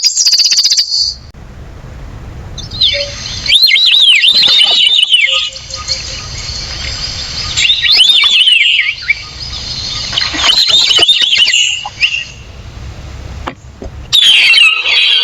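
A wild African songbird calling in phrases of quick, arching chirps, repeated every few seconds, over a low background rumble.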